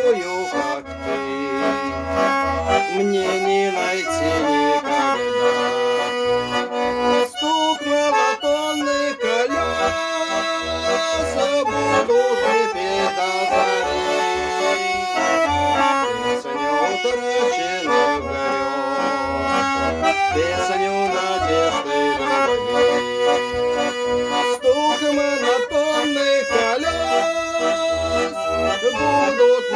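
Instrumental song music, accordion playing the melody in held notes over a repeating bass line, with no singing.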